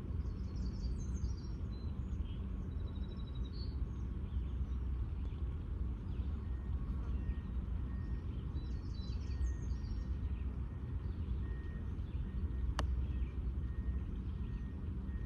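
Small birds chirping in two short bursts, over a steady low background rumble. A single sharp click comes near the end.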